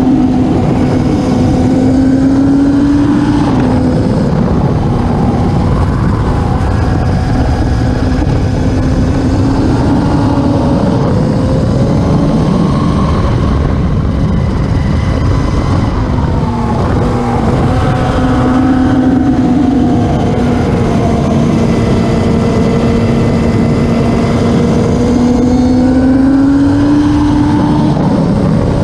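Racing motorcycle engines running hard and loud. The engine pitch climbs slowly and then drops back several times, as with gear changes.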